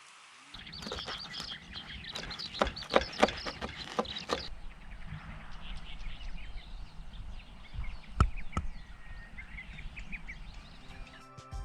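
Birds chirping outdoors, with a run of sharp clicks through the first few seconds and another single click about eight seconds in.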